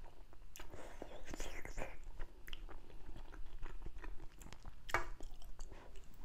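Chewing and wet mouth noises of a person eating tofu and broth from a spicy fish-roe hot pot, with small clicks throughout and one sharper click about five seconds in.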